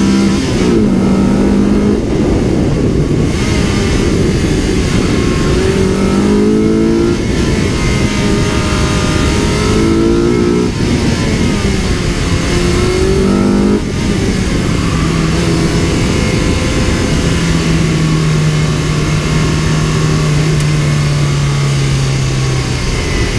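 Honda Civic's B18C4 1.8-litre DOHC VTEC four-cylinder engine pulling hard on track, revs climbing and dropping back at each gear change, four or five times. In the last third it settles into a steady, slowly falling note as the driver eases off.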